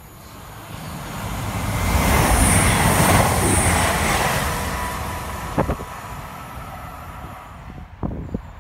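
CrossCountry Voyager diesel multiple unit passing through the station at speed. Its rush of wheels, engines and air builds over about two seconds, peaks with a high hiss, then fades as the train goes by. A few sharp clicks follow near the end.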